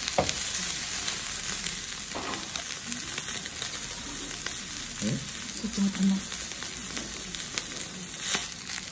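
Venison steak and vegetables sizzling in butter on a round tabletop griddle plate, a steady frying hiss, with a few short clicks as chopsticks work the meat.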